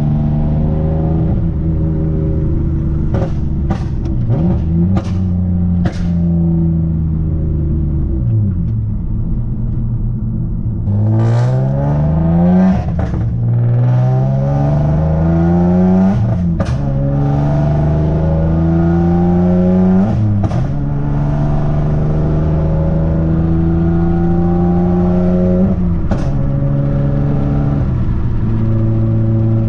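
Nissan Maxima's 3.5-litre V6 accelerating hard through a six-speed manual, heard from inside the cabin. The engine note climbs in pitch and falls back at each upshift, four times in the second half, with a short click at several of the shifts.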